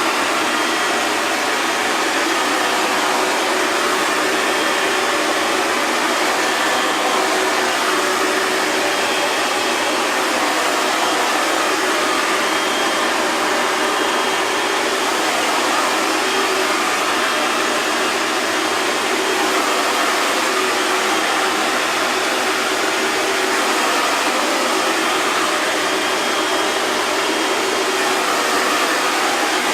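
Hair dryer running continuously, a steady rushing airflow with a faint motor whine and no change in speed.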